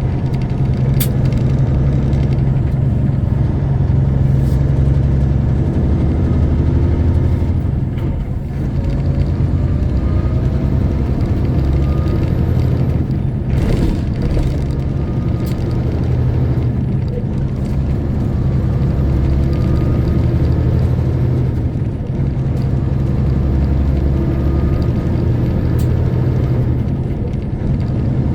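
Semi truck's diesel engine and drivetrain running at road speed, a steady low drone that dips briefly twice. A short burst of hiss-like noise about midway.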